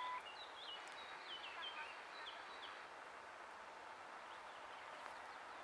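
Small bird chirping: quick falling notes repeated over the first three seconds, over a steady outdoor hiss. A steady high tone cuts off just after the start.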